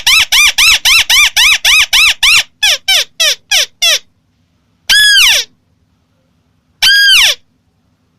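White-browed crake calling: a fast chattering run of short notes, each rising then falling, about five a second, which slows and stops about four seconds in. Two longer, drawn-out notes that slide downward follow, about two seconds apart.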